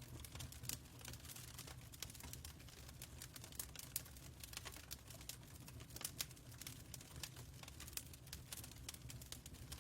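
Fireplace fire crackling: faint, irregular snaps and pops over a low steady rumble.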